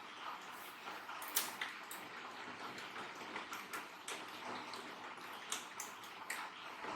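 Irregular light clicks and taps of small tools and parts being handled during a repair, with a sharper click about a second and a half in.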